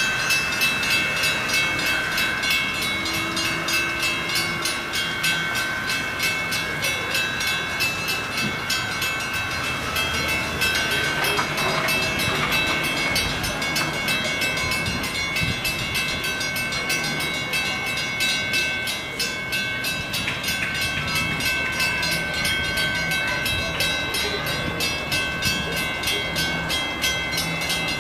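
A train rolling past, its wheels clicking rhythmically over the rail joints, with a steady high whine from the running gear.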